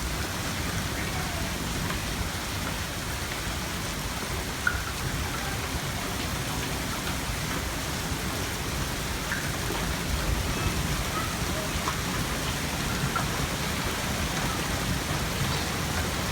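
Heavy precipitation of the hailstorm pelting down: a steady, dense hiss of rain and hail striking surfaces, with scattered small ticks.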